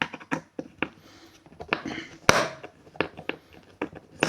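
A series of irregular clicks and knocks from hard objects being handled, with one louder knock a little past two seconds in.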